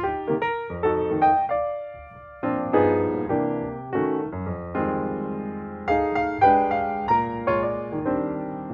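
Background music: piano playing chords and a melody, dropping off briefly about two seconds in before carrying on.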